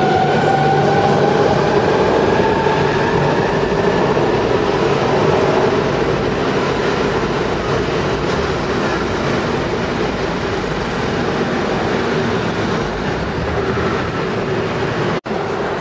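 Electric passenger train pulling out of the station. A whine from its traction motors rises in pitch over the first few seconds, then comes a steady rumble of wheels on rails as the carriages pass close by.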